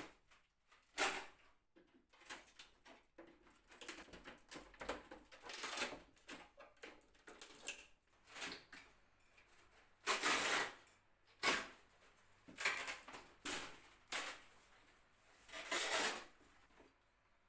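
Irregular knocks, clicks and scraping from hand work on a wooden cabinet, with a few longer scrapes about ten seconds in and again near the end.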